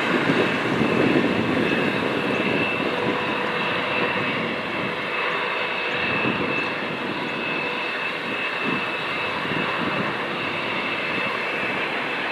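Jet engines of a Boeing 787-9 Dreamliner, Rolls-Royce Trent 1000 turbofans, running steadily: an even rumble and rush of air with a steady high whine over it.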